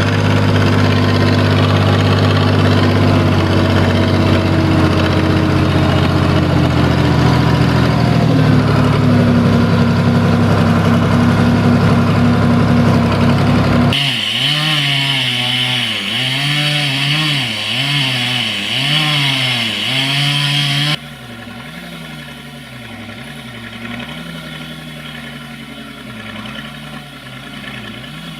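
SAME Laser 110 tractor's diesel engine working hard with a steady, loud tone that settles a little lower about eight seconds in. After an abrupt cut, the engine speed rises and falls over and over with a high hiss on top, and after a second cut it runs quieter, still rising and falling.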